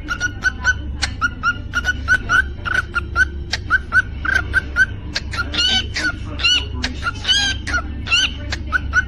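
Cockatiel chirping in quick short repeated notes, about three a second, broken by a few longer whistled calls in the second half, over a steady low hum.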